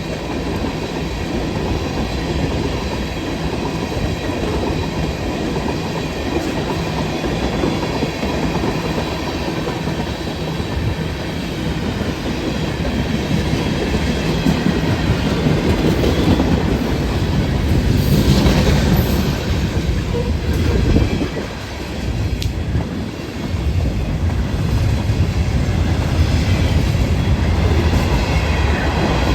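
A train rolling past on the tracks, its cars making a loud, steady rumble with a brief dip in level about two-thirds of the way through.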